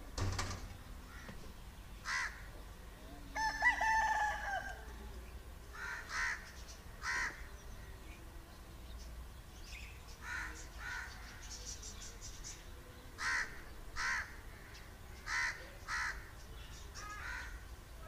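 Outdoor bird calls: one longer call with a rising and falling pitch about three and a half seconds in, and short harsh calls repeated every second or two, often in pairs.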